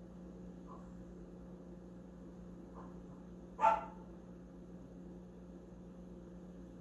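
A single short dog bark a little past halfway, with two faint yips before it, over a steady low electrical hum.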